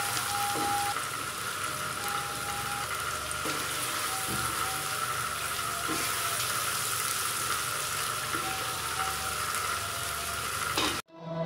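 Mutton chukka sizzling as it fries in its spiced oil in a stainless steel pot, with a spatula stirring through the meat. The sizzle is steady and cuts off suddenly near the end.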